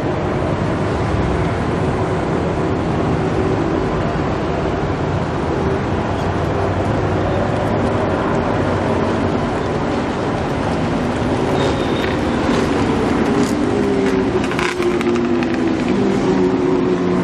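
Supercar engines running at close range, their pitch wavering and gliding up and down as they are blipped, with a few sharp clicks past the middle.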